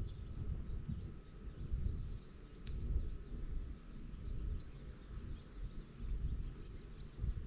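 Outdoor ambience: a faint high chirp repeating a little more than once a second, like an insect, over a low, uneven rumble.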